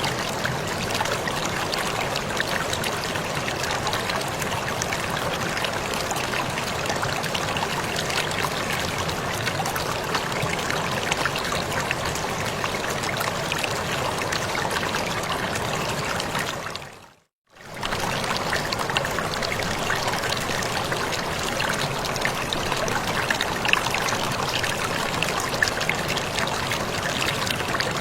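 Waterfall rushing steadily, an even wash of falling water. About two-thirds of the way through it fades briefly to silence and straight back in.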